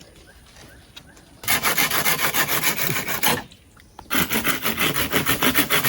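Wood being sawn by hand with rapid rasping strokes, in two bouts with a short pause about halfway through.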